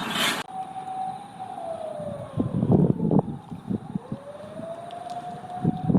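A siren wailing, its single tone falling slowly in pitch and then rising back over a few seconds. A loud rushing noise cuts off about half a second in, and low rumbling buffets come twice.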